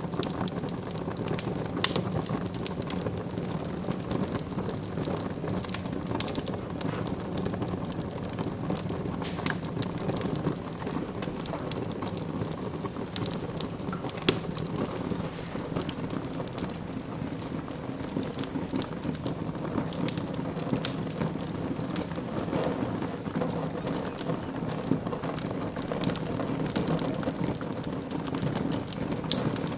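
Fireplace wood fire burning with a steady hiss and frequent small crackles and pops.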